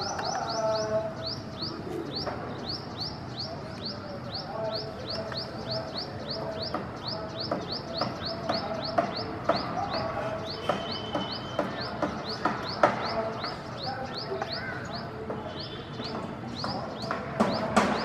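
A small bird calling continuously in a rapid series of short, high, down-slurred notes, about four a second, thinning out briefly twice.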